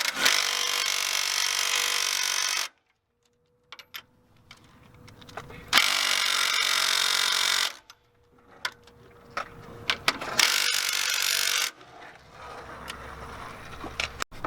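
A power tool runs in three bursts, the first about two and a half seconds long and the next two shorter, with light clicks and knocks of hand work between them.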